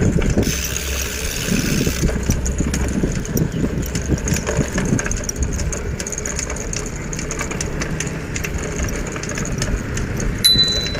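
Riding noise on a country road: wind rumble on the microphone and road noise, with a motor engine running. A short high tone sounds near the end.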